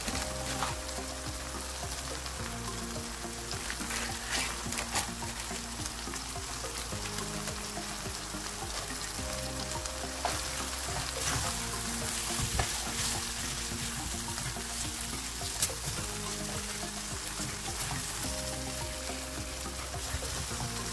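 Chicken, tomatoes and capsicum sizzling in oil in a nonstick wok, with a spatula scraping and knocking against the pan now and then as the spices are stirred in.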